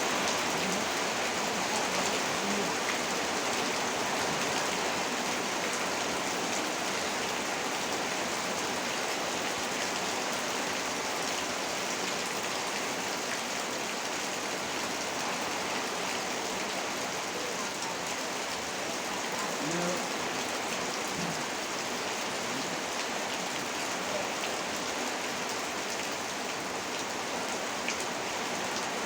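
Heavy rain falling steadily in a downpour, a continuous even hiss with no breaks.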